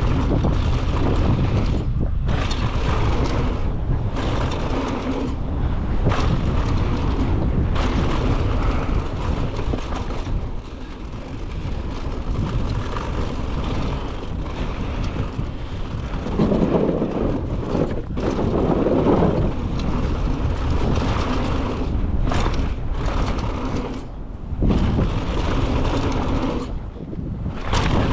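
Wind buffeting the microphone and tyres rumbling over a dirt trail as a mountain bike descends at speed, with brief lulls.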